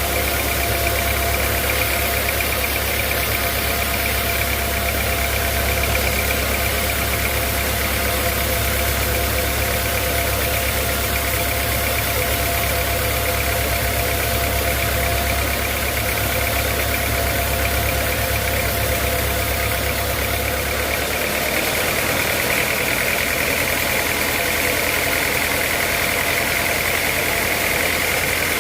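Sawmill machinery running steadily, with a constant whine over a deep rumble. The rumble drops away about three-quarters of the way through.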